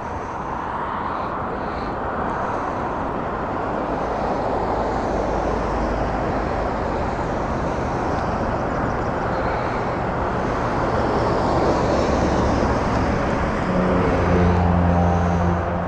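Propeller floatplane engine drone that grows steadily louder, with a deeper engine hum coming in near the end.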